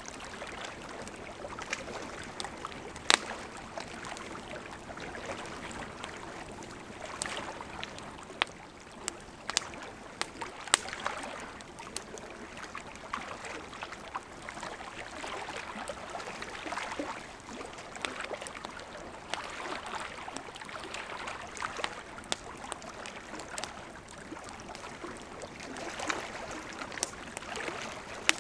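Burning wood campfire: a steady hiss of flames with frequent crackles and sharp pops, the loudest about three seconds and eleven seconds in.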